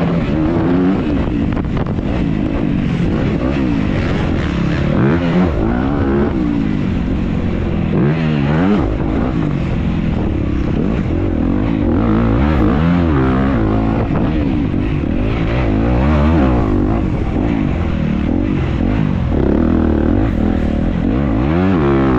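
Dirt bike engine ridden hard on a motocross track, revving up and falling back again and again as the rider works the throttle and gears, heard from on the bike.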